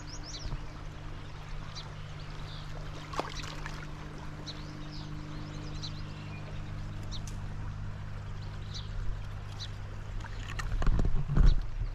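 Riverside ambience: a steady low hum under a wash of water noise, with scattered short bird chirps. Near the end, loud low rumbling thumps hit the microphone.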